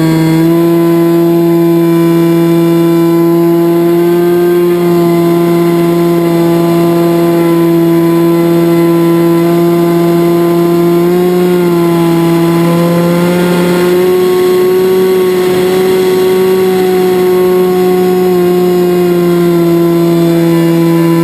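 Electric motor and propeller of a Finwing Penguin FPV plane running at steady throttle: a loud, even hum whose pitch rises and dips slightly a few times as the throttle changes.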